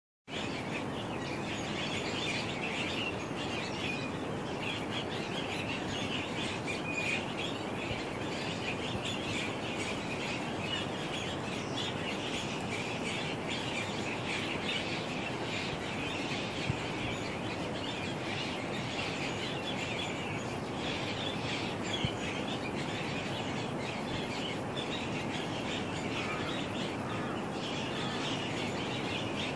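Many small birds chirping continuously over a steady background hiss of outdoor noise.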